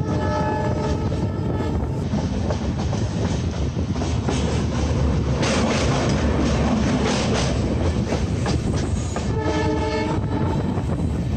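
Express train coaches running at speed, wheels clattering on the rails, the clatter growing louder and denser while crossing a bridge midway. A locomotive horn sounds twice: a blast of about two seconds at the start and a shorter one near the end.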